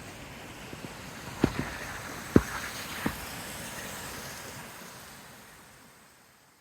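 Slow footsteps in snow, a few separate steps over a steady windy hiss, the whole fading out near the end.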